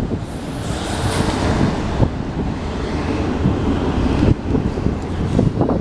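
Steady rumble of a passing train, mixed with wind buffeting the microphone.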